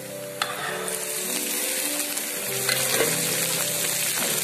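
Chicken and onions frying in hot oil in a wok, a steady sizzle that grows louder and brighter about a second in as the cut vegetables go into the pan. A knock near three seconds in, likely a stirring utensil against the wok.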